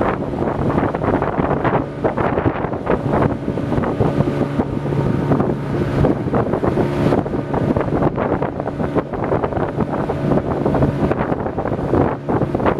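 Wind buffeting the microphone over a steady low engine hum.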